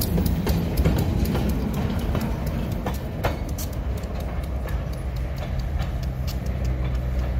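Slow-moving freight train rolling past: the cars' steel wheels give sharp, irregular clicks and knocks over the rails, above a steady low rumble from the diesel locomotives.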